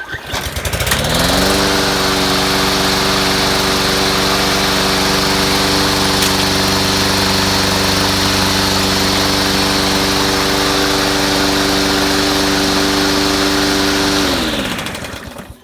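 Husqvarna all-wheel-drive walk-behind mower's engine pull-started, catching at once and rising to a steady full-throttle run with the blade spinning. About six seconds in there is a brief tick as the blade cuts up a scrap of paper towel. Near the end the engine is shut off and winds down to a stop.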